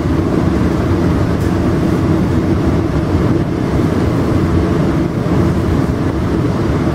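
Steady running noise of a Tri-Rail commuter train moving at speed, heard from inside a passenger coach.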